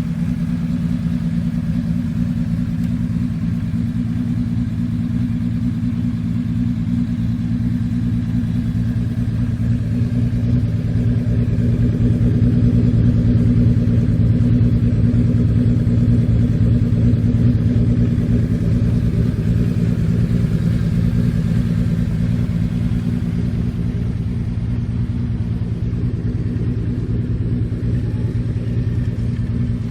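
Kawasaki KZ1300's inline-six engine running at a steady, even speed with a low, smooth note, getting a little louder in the middle.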